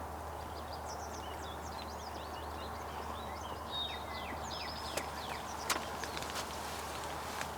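Songbirds chirping and trilling in quick high phrases, with a few sharp clicks about five seconds in and again near the end.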